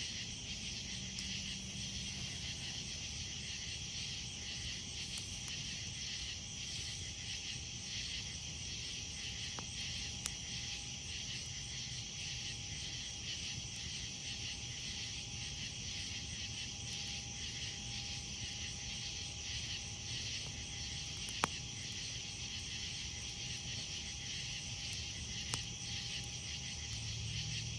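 Night insects chirping steadily over a campfire's low crackle, with three sharp pops from the burning wood, the loudest about two-thirds of the way through.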